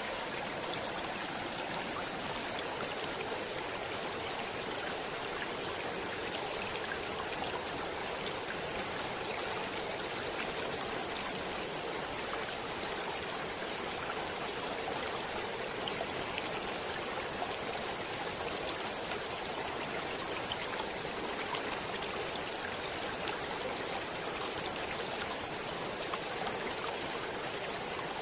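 Stream water running steadily: an even wash of water noise flecked with small splashes and droplets, with no change in level.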